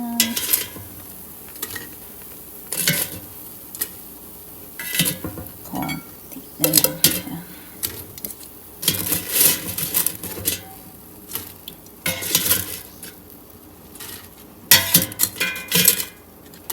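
Metal utensils clinking and scraping against cooking pans in irregular strokes, over a faint sizzle of food frying.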